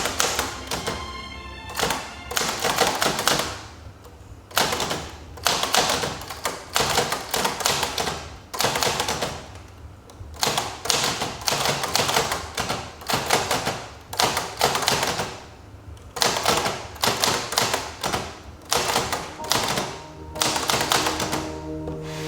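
Olivetti Valentine portable manual typewriter being typed on: quick runs of key strikes with short pauses between them, over soft background music.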